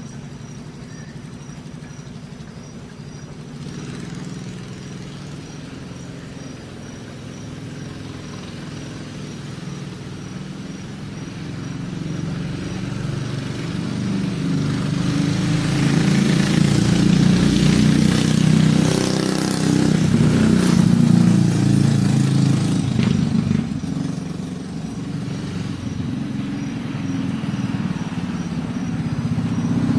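Rat rod mini bike's small engine running as the bike is ridden, getting louder toward the middle as it comes closer, easing off a little, then building again near the end.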